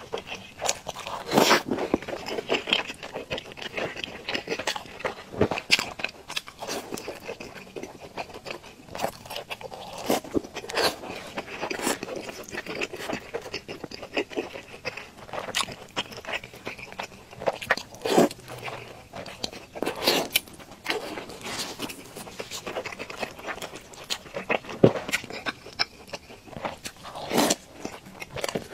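Close-miked biting and chewing of fried dough sticks (youtiao) soaked in a milky drink: an irregular stream of crunches and mouth clicks.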